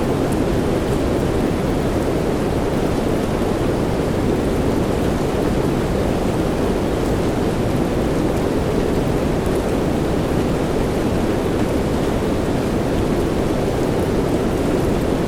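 Steady rain noise with a deep, muffled tone, even throughout, with no single claps or drops standing out.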